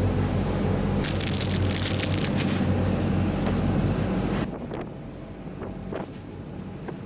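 Steady low engine drone of a passenger ferry, with a burst of crackling noise about a second in. The drone cuts off suddenly about four and a half seconds in, leaving wind noise on the microphone and a few faint knocks.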